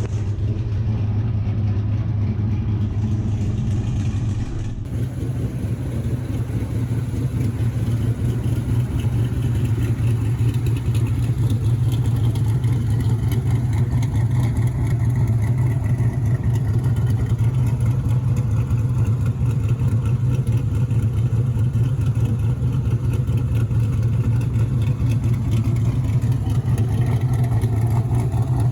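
Cammed V8 pickup truck engine and exhaust running steadily, with a strong low drone. The truck has a stage 4 camshaft and its cylinder deactivation (DOD) system deleted.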